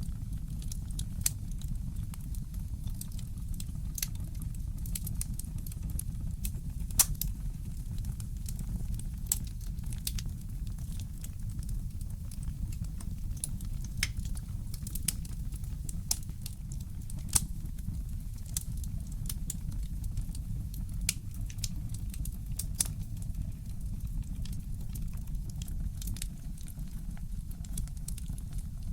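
Wood fire crackling in a fireplace: scattered sharp pops and snaps over a steady low rumble, with a few louder pops.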